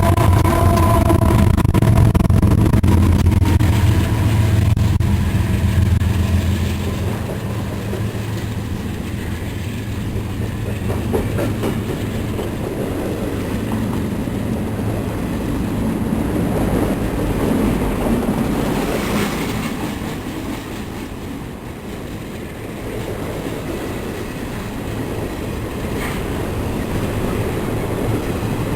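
CSX intermodal freight train passing: the low drone of its GE diesel locomotives is loud for the first several seconds and then drops away, leaving the steady rumble and clickety-clack of the intermodal cars' wheels rolling over the rails.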